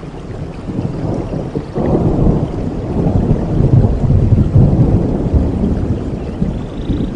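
Thunder rumbling over steady rain, swelling suddenly about two seconds in and easing off near the end.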